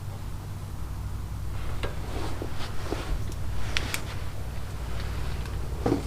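Light, scattered clicks and taps of small metal brake parts and tools being handled, over a steady low hum.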